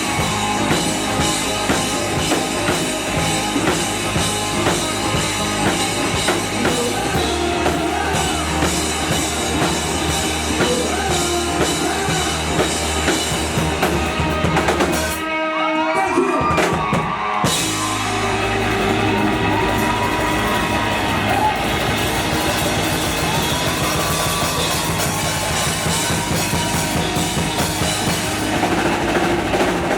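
Live rock band playing with a driving drum kit, bass and guitars. About halfway through the low end and drums drop out for a couple of seconds, then the full band comes back in.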